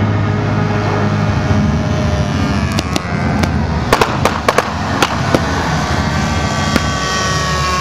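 Radio-controlled model aircraft engines running, with a slowly falling tone late on as one passes. Roughly midway, a quick series of about half a dozen sharp cracks over a second and a half.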